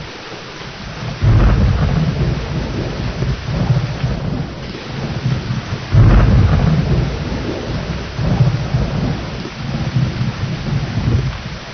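Thunderstorm: steady heavy rain with rolling thunder, two strong claps of rumble about a second in and again at about six seconds, each trailing off into lower rumbling.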